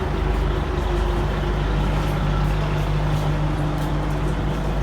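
Large ferry's engine running, a steady low hum with a constant drone.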